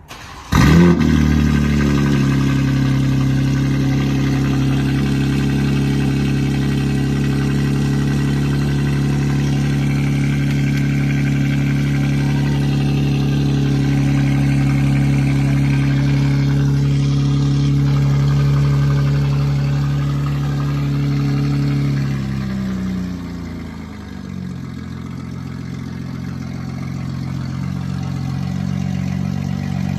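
BMW G87 M2's S58 twin-turbo inline-six starting up through catless downpipes and a single mid pipe: a brief crank, then it catches with a rev flare and settles into a steady fast idle. About 22 seconds in the idle drops to a lower, steady idle.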